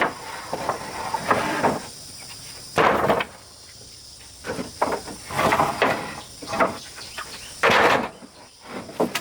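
Irregular knocking and scraping from hands-on building work, several loud strokes spread unevenly, over a steady high chirring of insects.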